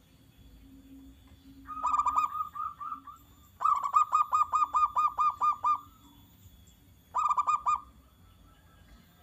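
Zebra dove (perkutut) calling: three bursts of rapid repeated cooing notes, the middle one the longest and loudest at about a dozen notes.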